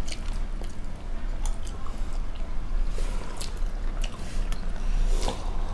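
People chewing steamed chicken momos close to the microphone, with wet mouth sounds and short irregular clicks and smacks.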